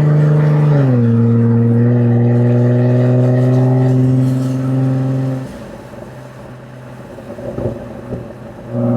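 Jaguar F-Type V6 S's supercharged 3.0-litre V6 exhaust under hard acceleration, with an upshift about a second in, after which the pitch climbs slowly. About halfway through the throttle is lifted and the note falls away with a few sharp pops on the overrun, then the engine pulls hard again near the end.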